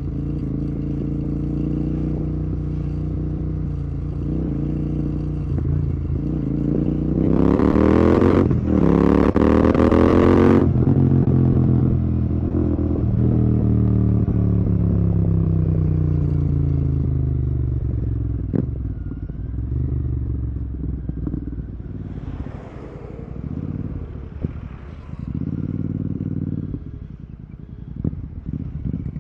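Royal Enfield Continental GT 650's parallel-twin engine through a Red Rooster aftermarket exhaust, under way: the revs climb into two hard accelerations about seven to ten seconds in, split by a quick gear change, then fall away slowly as the bike slows. Shorter throttle rises follow near the end.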